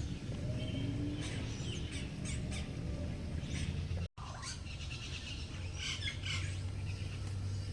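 Several birds chirping and calling in short, high whistles over a steady low hum, with a brief cut to silence about halfway through.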